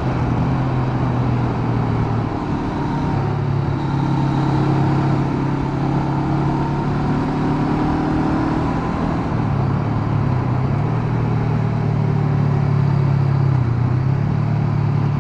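Honda CB500X's parallel-twin engine running on the move, its engine speed dipping and recovering a few times.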